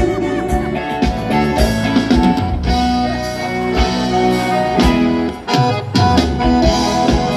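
Live band music with guitar over a steady drum beat, without vocals, briefly dropping out about five and a half seconds in.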